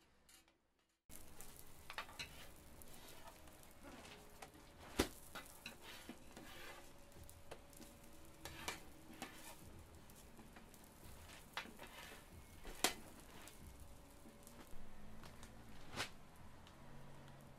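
Hotteok frying on a griddle: a steady sizzle with scattered sharp knocks of utensils on the hot metal, starting about a second in, with three knocks standing out louder.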